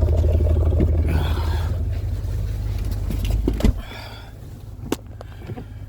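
Jeep Commander's engine running hard under throttle while the vehicle is stuck in deep snow and trying to pull free. The engine drops back sharply about three and a half seconds in, with a short knock, and the rest is quieter.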